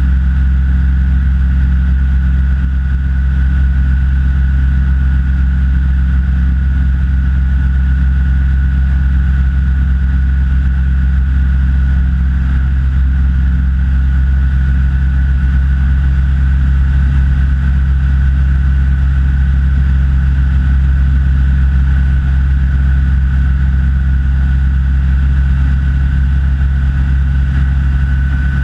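Rans S6 light aircraft's engine and propeller droning steadily in cruise flight, with a thin steady whine above the drone.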